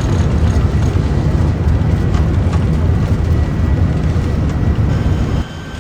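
Loud, steady low rumble of a Boeing 747-400 on its landing rollout, heard from inside the cockpit. It drops off abruptly about five seconds in.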